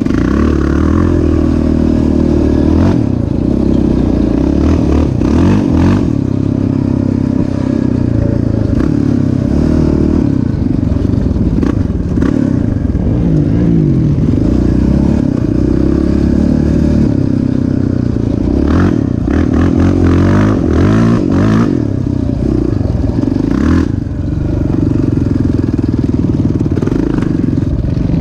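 Off-road machine's engine running hard as it is ridden, its pitch rising and falling with the throttle, with several short rattling knocks over the top.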